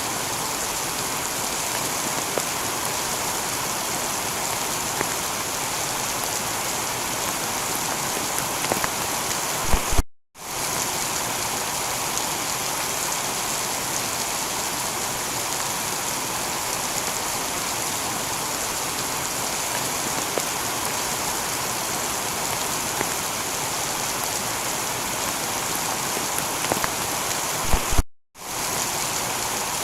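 Steady heavy rain falling on a tiled roof, an even hiss of many drops. Twice, about ten seconds in and again near the end, a short click is followed by the sound cutting out for a fraction of a second.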